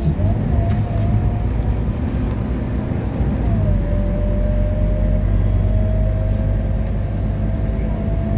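Scania K230UB bus engine running under load, with a thin drivetrain whine above the rumble. About three seconds in, the whine and the engine note drop, then slowly climb as the bus speeds up again, in the way a gear change looks.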